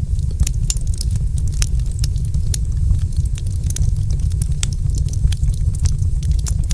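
Log fire in a fireplace crackling, with many small, sharp pops at irregular intervals over a steady low rumble.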